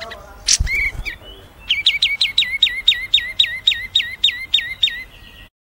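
Songbird repeating a fast, even series of sharp downslurred whistled notes, about four or five a second, that stops abruptly. A few single calls and two low thumps come just before the run.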